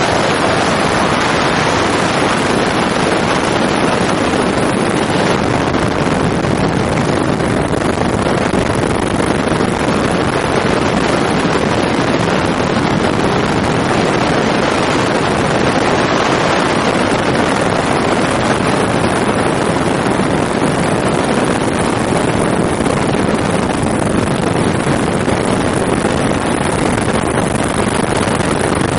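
Helicopter in flight heard from on board: a loud, steady noise of engine, rotor and rushing air that does not change.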